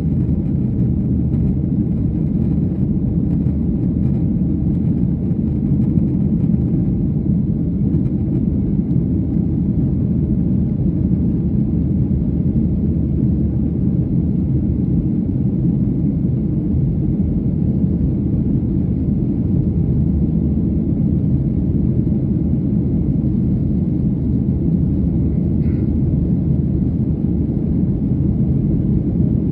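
Steady low rumble of a jet airliner's engines and airflow heard inside the passenger cabin.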